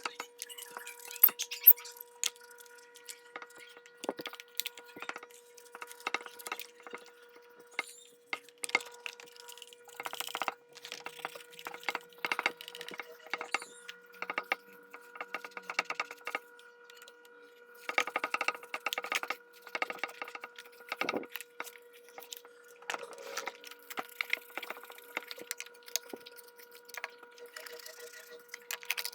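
Irregular clicks, knocks and clinks of small metal parts and hand tools being handled while a household sewing machine is worked on, over a faint steady hum.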